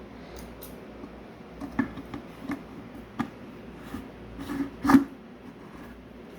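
A few light knocks and clicks of parts being handled, coming irregularly and loudest about five seconds in, over a faint steady hum.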